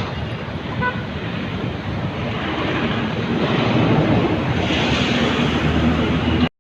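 Heavy trucks on the road: a steady rumble of engine and tyre noise with wind on the microphone. It grows louder through the middle and cuts off abruptly at the very end.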